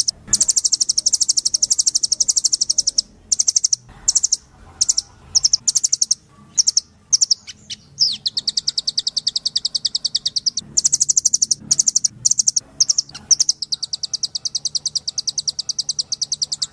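Blue nuthatch song: fast, high trills of evenly repeated notes. Long trills alternate with a run of short bursts through the middle.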